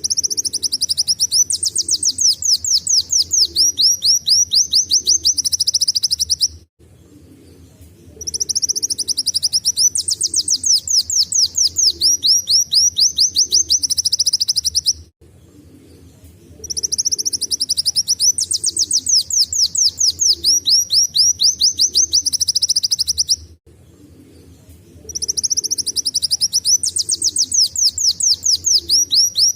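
Kolibri wulung sunbird singing canary-like song: fast, high trills of rapidly repeated down-sweeping notes, in phrases about six seconds long separated by short pauses, four times.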